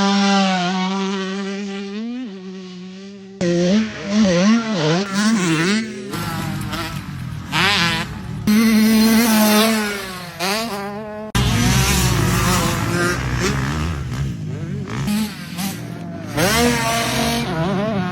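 Small 65cc two-stroke dirt-bike engines revving hard on a motocross track, pitch climbing and dropping quickly with throttle and gear changes. The sound changes abruptly every few seconds, as one short riding clip cuts to the next.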